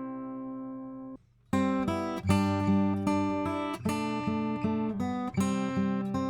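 Acoustic guitar playing chords, recorded through a Warm Audio WA-2A optical compressor set to Limit with pre-emphasis. A held chord rings out and cuts off about a second in. After a short silence, plucked and strummed chords resume with sharp attacks and changing harmonies.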